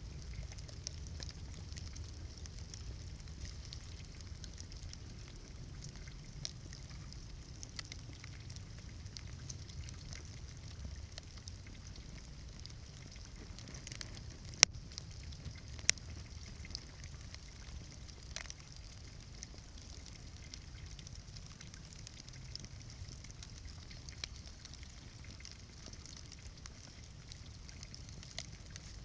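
Outdoor wood bonfire crackling steadily, with scattered small snaps and a couple of sharp, loud pops about halfway through.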